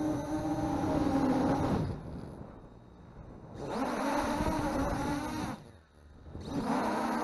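MJX Bugs 3 brushless quadcopter's motors and propellers whining in flight. The sound falls away sharply twice and spins back up each time.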